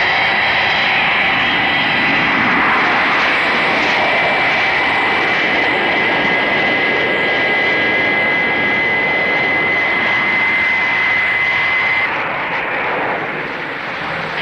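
Jet airliner engines at high power: a loud, steady rushing with a high whine over it, typical of a take-off. The whine drops out about twelve seconds in and the rushing eases a little.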